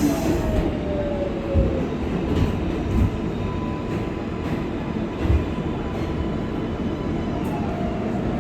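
R188 subway train on the 7 line running along the track: a steady low rumble with a few short thumps and a faint electric motor whine that falls in pitch in the first second or two.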